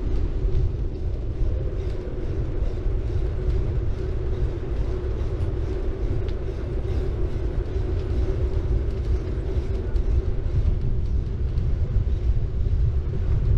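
Steady riding noise from a city bike: tyres rolling on the road, with wind rumbling on the bike-mounted GoPro microphone.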